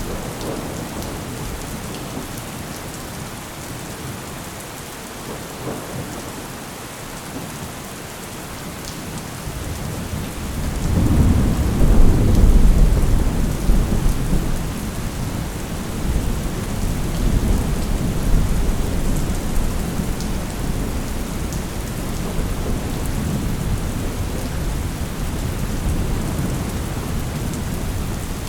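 Steady heavy rain with a long roll of thunder. The thunder builds about ten seconds in, is loudest a couple of seconds later, and rumbles on at a lower level behind the rain.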